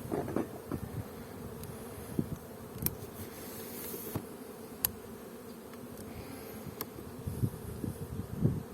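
A honeybee colony buzzing steadily at the hive, with a few light clicks.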